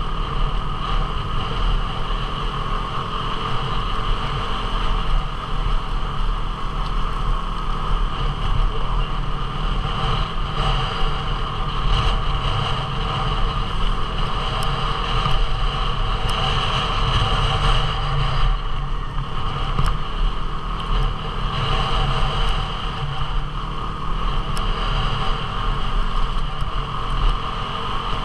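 Single-cylinder 250 cc dual-sport motorcycle engine running steadily as the bike is ridden along a trail, picked up by the on-board camera along with wind rumble on the microphone.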